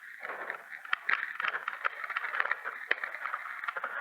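Electric mountain bike rattling and clicking as it rolls over a rough dirt trail, with a steady crunching hiss of tyres on loose ground.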